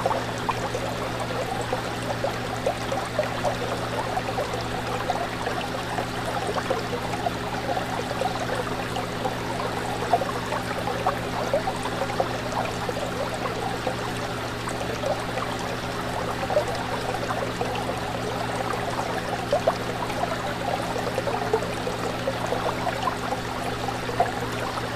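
Fish tank water bubbling and trickling steadily, with small splashes popping through, over a steady low hum.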